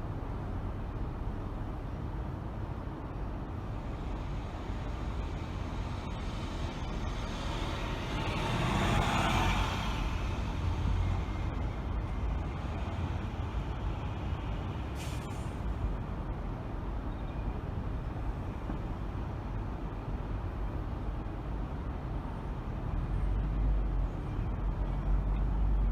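Car driving through city streets: steady low road and engine rumble. A rushing hiss swells and fades about nine seconds in, like a large vehicle's air brakes or a vehicle passing close by. A brief click comes near the middle.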